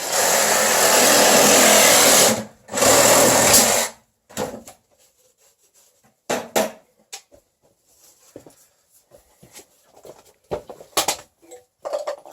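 A power tool runs in two bursts, one of about two and a half seconds and a shorter one of about a second, followed by scattered knocks and clicks.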